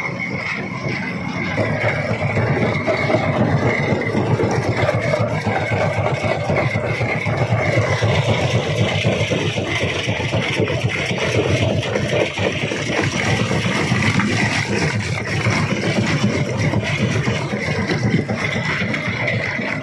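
A stone crusher running, with a steady machine drone and a dense rattle of rock being broken and fed through. It grows fuller about a second and a half in.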